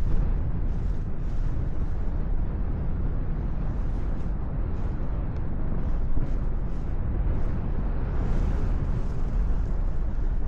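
Wind rushing over the microphone in flight under a paraglider: a steady low rumble with no break.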